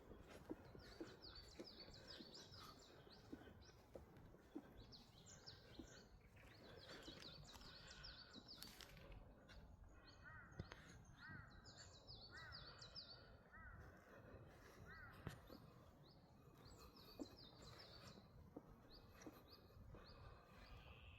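Small songbirds singing: bursts of quick, high chirping notes that come back every few seconds, with a lower, repeated arching note joining from about ten to fifteen seconds in, over faint low background noise.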